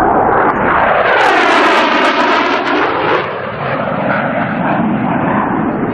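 AV-8B Harrier II's Pegasus turbofan jet engine running loud as the jet passes by. Its noise sweeps up and back down in a swirling way through the first few seconds, then eases slightly.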